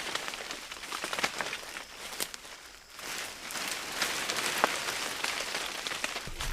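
Rain pattering: a steady hiss thick with small drop ticks, easing briefly about two and a half seconds in.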